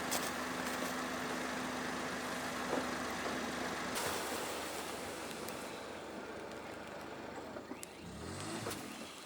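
Kei truck driving, with steady engine and road noise. A steady hum cuts off about four seconds in and the noise then fades, with a short rising low sound near the end.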